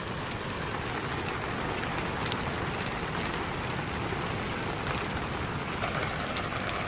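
Steady rain falling on a campsite, an even hiss with scattered sharper drop hits on the wet canvas tent.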